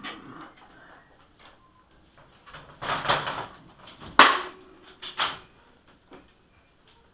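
Rustling and scraping handling noise, then a sharp knock about four seconds in and a lighter one a second later.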